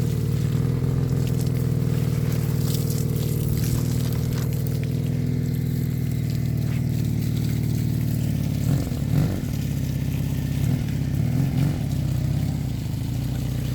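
A small engine running steadily at a constant speed, starting abruptly and wavering slightly in pitch partway through.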